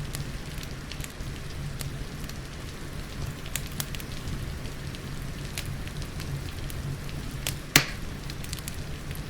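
Wood fire crackling, with scattered sharp pops and one loud pop near the end, over a steady low rumble and the even hiss of falling rain.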